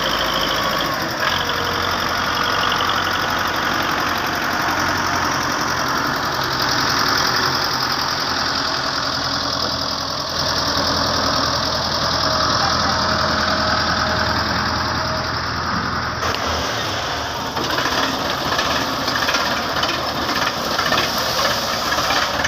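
Belarus 510 tractor's diesel engine running steadily. About 17 seconds in the sound changes and becomes rougher and more pulsing.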